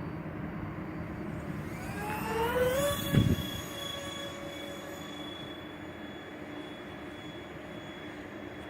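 The electric ducted fans of a Dynam Cessna Citation II RC jet whining, rising in pitch for about a second as they spool up, then holding a steady high whine. A short low thump comes just after the rise and is the loudest moment.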